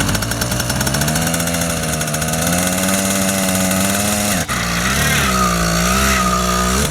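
80cc two-stroke bicycle engine with an expansion-chamber exhaust revving under load as the bike pulls away, its pitch climbing over the first few seconds and then holding. The revs drop briefly about four and a half seconds in, then rise and fall again before the sound cuts off abruptly.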